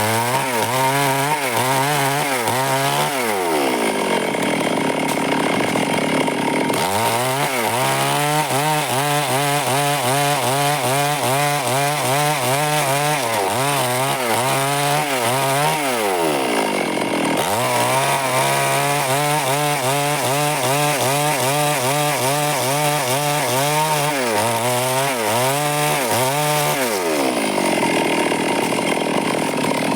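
Stihl chainsaw running at high revs through wood, its engine note wavering under load. Three times, roughly every twelve seconds, the revs drop away, then climb back a few seconds later.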